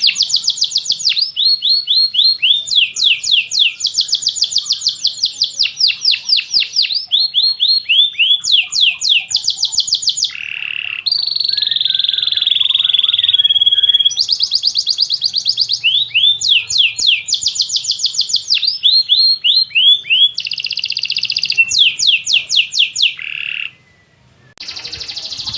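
Domestic canary singing: fast trills of rapidly repeated notes, switching from one trill type to the next every second or two, with a steadier warbling passage midway and a short break near the end.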